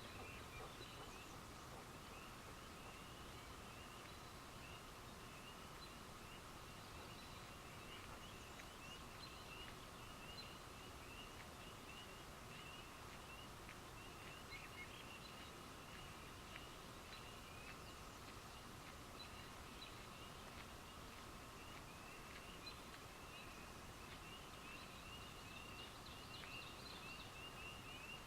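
Faint nighttime chorus of small calling animals: many short, high chirps repeating without pause over a steady lower drone.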